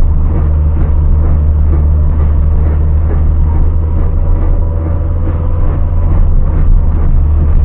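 Car being driven, a loud steady low rumble of road and engine noise with a faint repeated scraping, metal on metal, from the right-side wheel.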